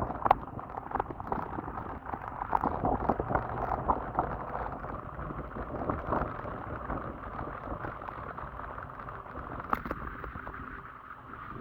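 Ride noise from a Kugoo electric scooter on a wet surface: a continuous rumbling, crackling noise with frequent sharp clicks and rattles.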